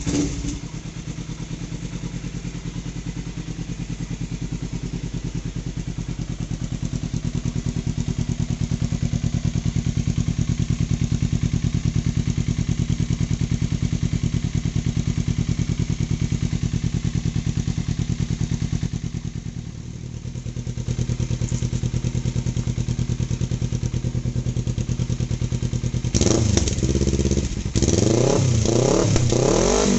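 Kawasaki Ninja 300's parallel-twin engine idling steadily through an Akrapovic slip-on exhaust, with a brief dip in level about two-thirds of the way through. Near the end it is revved repeatedly in quick throttle blips, the pitch rising and falling with each one.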